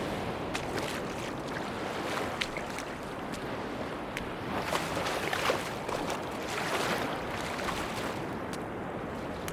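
Sea waves washing up on a beach with wind. The wash swells twice, about halfway through, and faint scattered clicks are heard throughout.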